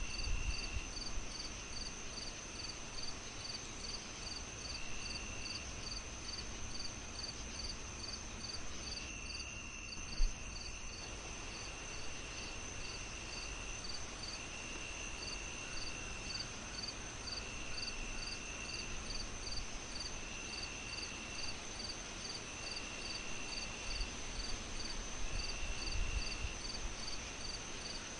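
Crickets chirping steadily in layers: a high pulse about twice a second and a continuous high trill, with a lower chirp that sounds in stretches of about a second. Under them runs a soft fireplace crackle, with one loud pop about ten seconds in.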